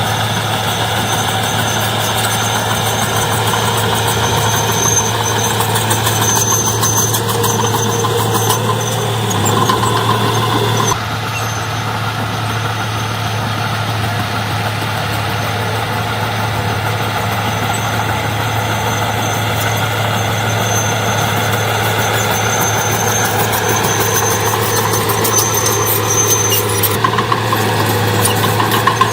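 Heavy diesel engines of earthmoving machinery running steadily with a constant low hum. The sound changes abruptly about eleven seconds in and again near the end.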